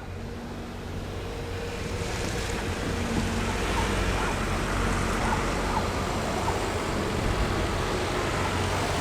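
A train running past close by, its noise building over the first few seconds and then holding loud and steady, with wind on the microphone.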